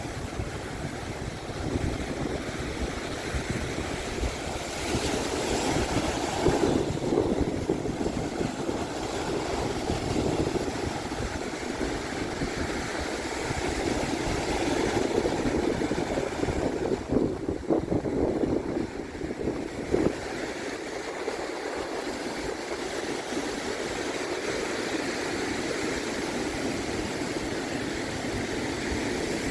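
Ocean surf washing onto the beach in steady swells, two of them louder, with wind buffeting the microphone that eases near the end.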